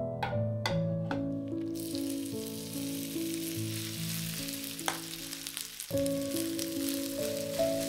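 Hot olive oil pops a few times, then sizzles loudly from about two seconds in as a shredded cabbage, egg and rice mixture is spooned into the frying pan. A spoon knocks once against the pan about five seconds in.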